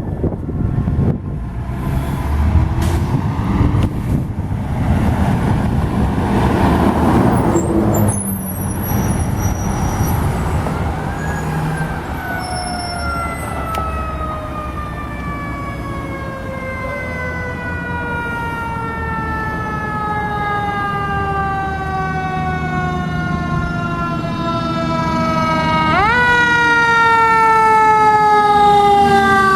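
Fire truck responding: loud engine and road noise at first, then its siren in a long, slowly falling wail. About 26 seconds in, the siren quickly rises again and then starts another slow fall.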